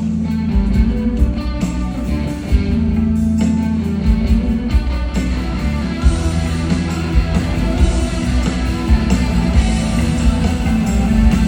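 Rock band playing an instrumental guitar passage over drums and bass.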